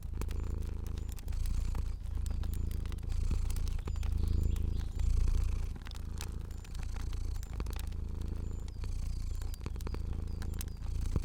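A domestic cat purring, a low rumble that swells and dips with each breath, roughly once a second. Sharp pops and crackles of a wood fire are scattered over it.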